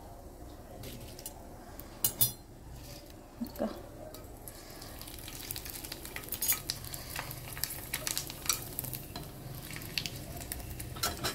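Vadiyalu (sun-dried fritters) sizzling and crackling in hot oil in a kadai, with a metal spoon stirring and scraping against the pan. A couple of sharp metal clinks come in the first few seconds, and the crackling grows denser after about four seconds.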